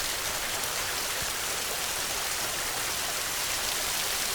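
Heavy rain falling steadily: a dense, even hiss of many drops, with no thunder.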